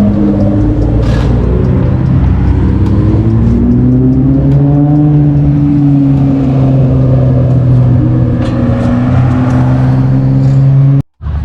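A car engine running loudly at fairly steady revs, its pitch rising a little over the first few seconds and then holding. The sound breaks off abruptly for a moment near the end.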